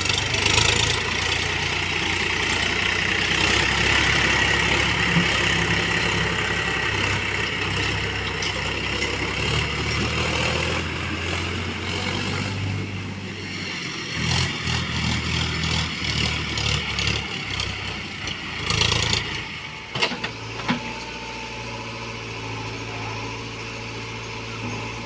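Diesel engine of heavy farm or earth-moving machinery running, its pitch shifting as the load and throttle change. Short knocks and clatter come in the second half, then a sharp knock.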